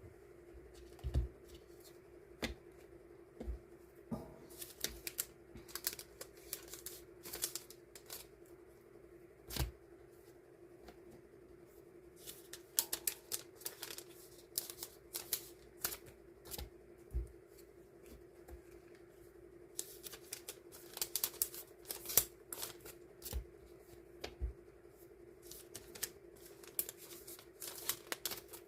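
Die-cut paper stickers being handled and sorted by hand: irregular light taps, rustles and crinkles of paper and plastic, over a steady low hum.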